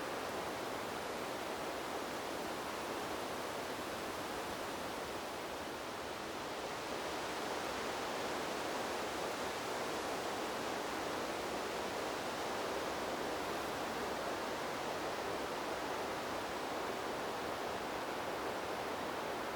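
Wind blowing through trees, a steady rushing noise that eases slightly about six seconds in and then picks up again.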